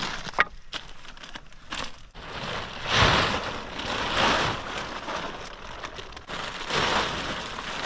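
A plastic tarp rustling and crinkling in swells as it is handled and unfolded, over a hiss of rain, with one sharp snap about half a second in.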